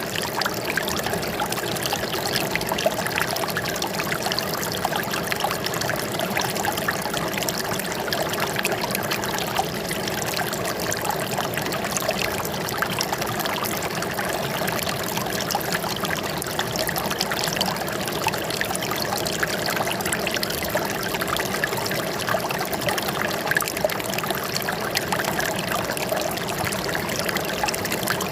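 Running water trickling and splashing steadily, a constant, unbroken sound.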